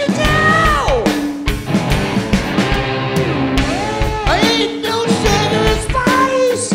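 Live rock band playing loudly: a steady drum beat and bass under long sliding guitar lines that glide down and up in pitch, the way a lap steel plays.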